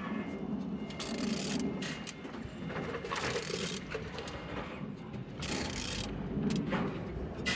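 EF60GHY engine being turned over by hand with a wrench: mechanical clicking and scraping, with three swells of rushing noise about two seconds apart as the crank comes round.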